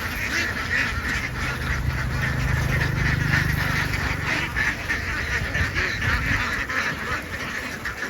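A large flock of domestic ducks quacking all at once, a dense continuous din of overlapping calls. A low steady hum lies under it for the first half and then fades.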